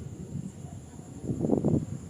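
Gusty wind buffeting the microphone in uneven low rumbles, strongest about one and a half seconds in, over a faint steady high-pitched whine.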